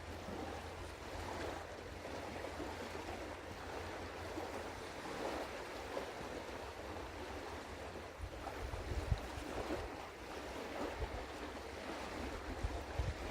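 Steady outdoor wash of wind and water at a riverbank, with low rumbling wind buffets on the microphone coming in irregular gusts in the second half.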